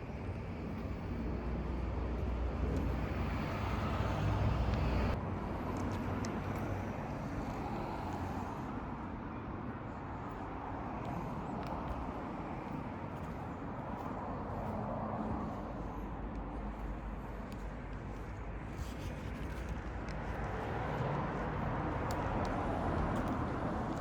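Subaru WRX STI (VAB) turbocharged flat-four engine idling steadily through its aftermarket muffler and sports catalyst, a low even hum. The level drops slightly about five seconds in.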